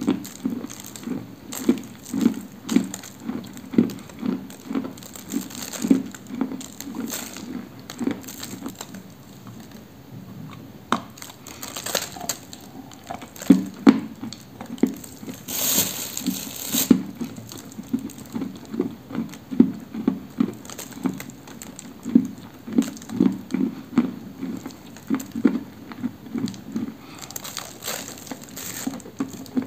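Close-miked chewing and crunching of a dry lump of orange-yellow clay, with chewing strokes about twice a second and crisp crackles as bites break off. The chewing stops for a couple of seconds partway through. A little past halfway there is one brief, louder, hissing crumble.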